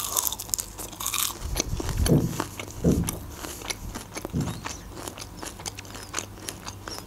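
Close-miked eating of a breaded, fried onion ring: a crunchy bite in the first second, then steady crunchy chewing with many small wet clicks.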